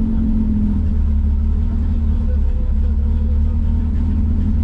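Datsun 240K's straight-six engine running steadily at low revs, a constant low drone with no revving.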